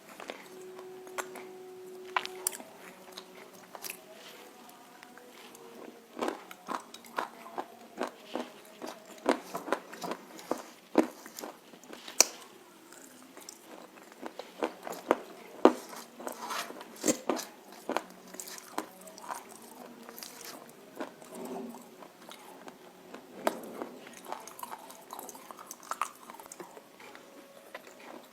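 Close-up biting and chewing of crunchy roasted nakumatt (edible clay) with red clay paste: irregular sharp crunches, some loud, mixed with softer chewing.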